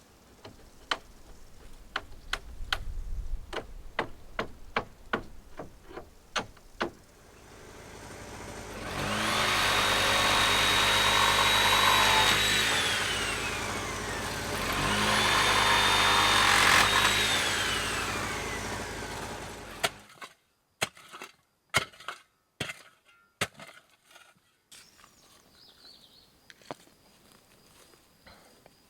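A series of sharp knocks, then a power tool run up to speed twice, each run holding a steady pitch for a few seconds before winding down. More sharp knocks follow.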